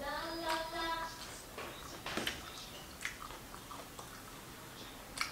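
Close-miked eating of fried fish: chewing and mouth smacks with a few sharp clicks. It opens with a short held vocal hum of about a second.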